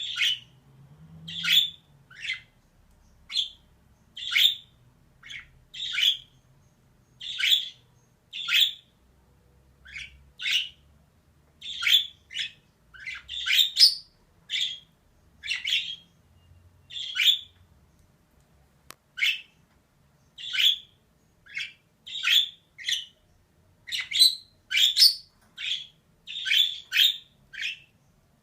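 Female budgerigar calling in short, sharp squawks, about one a second, with a pause of about two seconds midway.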